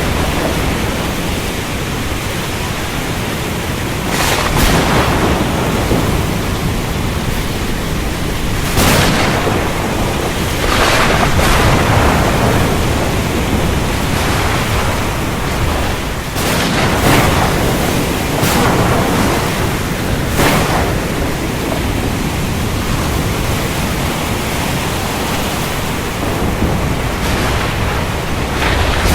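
Heavy rain in a thunderstorm, a steady hiss over low rumble, with about six sharp thunder cracks between about four and twenty seconds in.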